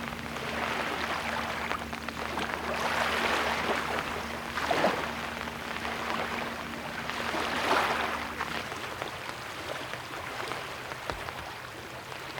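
Small lake waves washing onto the beach in repeated swells, each rising and falling every few seconds, over a faint steady low hum that fades out about nine seconds in.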